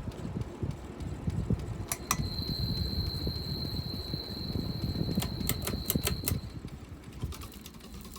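Hampton Bay Chatham ceiling fan running on high, its moving air buffeting in a low rumble. A few sharp clicks come about two seconds in and again near the middle, and a thin high-pitched tone holds for a few seconds between them. The rumble eases near the end.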